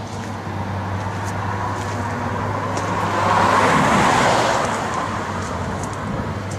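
Road traffic: a vehicle passes, its noise swelling and fading over about two seconds midway, over a steady low hum.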